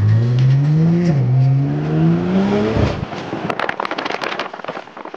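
BMW M340i's turbocharged 3.0-litre straight-six, on an E85 burble tune, accelerating hard, heard from inside the cabin: the pitch rises, drops once at an upshift about a second in, and climbs again. The engine note cuts off as the throttle closes around three seconds in, and a quick string of exhaust pops and crackles from the burble tune follows.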